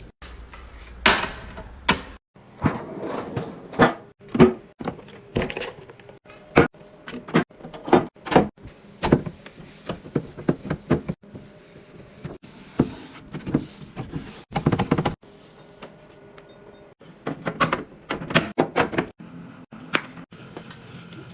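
A rapid series of clunks and knocks from containers and bins being handled and set down, as when stocking a refrigerator, with a few sharper clacks.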